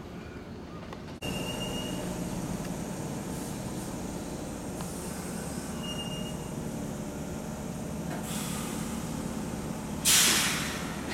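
Electric commuter train pulling into a station platform: a steady low rumble with two short, high brake squeals, then a loud sudden burst of compressed-air hiss near the end as the air brakes let off, fading over about a second.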